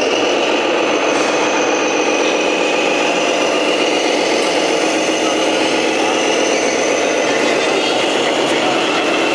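Radio-controlled Tamiya Scania truck running steadily, its small motor and gears giving a continuous mechanical whir with a thin high whine.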